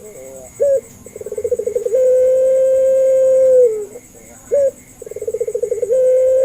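Barbary dove of the puter pelung type cooing. Each coo opens with a quick rolling run of short pulses that leads straight into one long, level coo ending in a slight drop. Two such coos come about four seconds apart, each preceded by a short rising-and-falling note.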